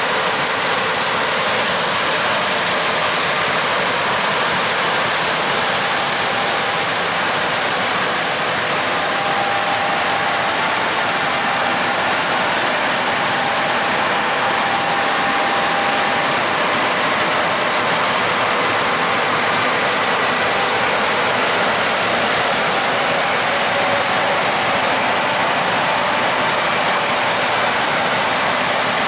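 Combine harvesters running steadily while harvesting corn: a constant mechanical din with faint steady whines, no change in level.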